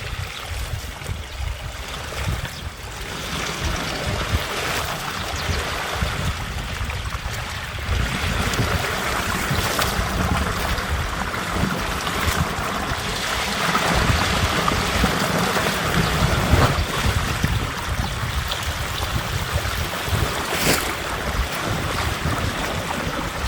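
Storm runoff water rushing and splashing, louder from about a third of the way in, with wind buffeting the microphone and a few brief knocks, the sharpest near the end.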